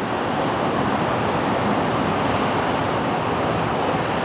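Steady rush of ocean surf breaking on the shore, with wind in the mix.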